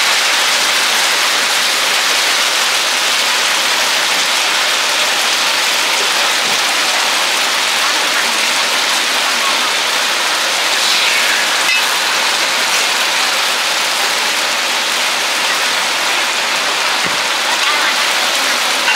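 Oysters and squid pieces frying in oil and starch batter on a flat griddle, sizzling steadily.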